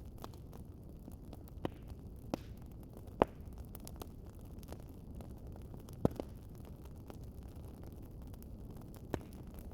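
Wood fire crackling in a fireplace: scattered sharp pops and snaps over a low, steady rumble of the flames, with the loudest pops about three seconds in and again about six seconds in.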